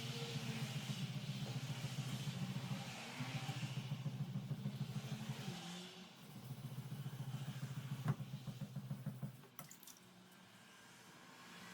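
A small motor running with a fast, pulsing low hum, which stops about nine and a half seconds in.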